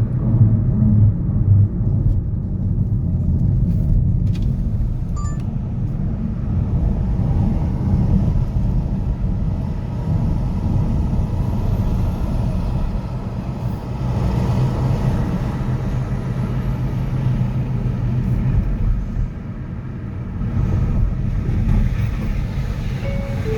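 City street traffic: a steady low rumble of car engines and tyres as vehicles pass, with a brief higher tone near the end.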